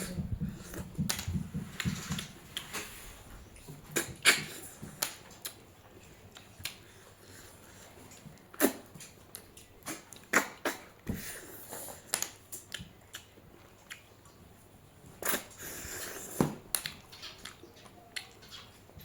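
Close-up eating sounds in a mukbang: chewing, crunching and wet mouth clicks and smacks coming irregularly, with a few louder crunches.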